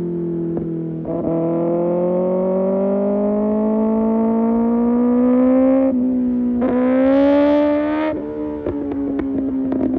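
A 2025 Kawasaki ZX-6R's inline-four engine through an Arrow Pro Race exhaust, pulling under throttle with the engine note climbing steadily. There are brief breaks about a second in and at around six seconds. Near the end the throttle closes and the exhaust gives a run of pops and crackles.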